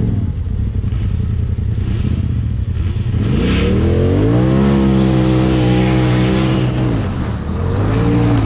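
Side-by-side UTV engine under hard acceleration on a dirt race track. It revs up about three seconds in and holds high for a few seconds, drops back near seven seconds, then revs up again near the end.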